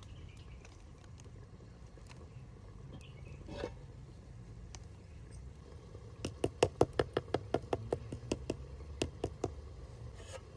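A quick run of sharp knocks, about five a second, starting a little past the middle and thinning out after about three seconds, over a steady low background.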